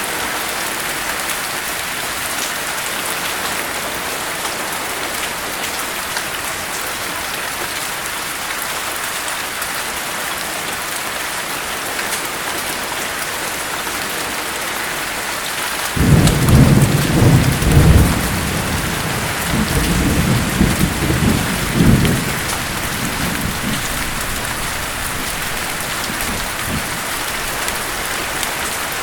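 Steady rain hissing throughout. About halfway through, a thunderclap breaks in suddenly and rolls in several low rumbling swells for around six seconds before fading back under the rain.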